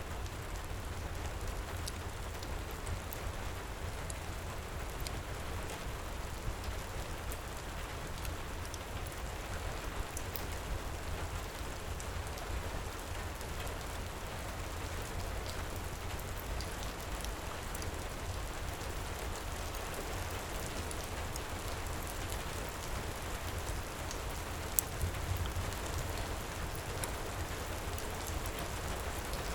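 Heavy rain pouring steadily, with a low rumble beneath it and scattered small sharp crackles from a fireplace, one louder pop about 25 seconds in.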